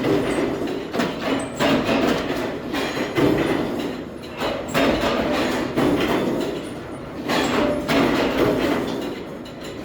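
Metalworking factory machinery running, with irregular heavy metal clanks and knocks over a steady mechanical rumble.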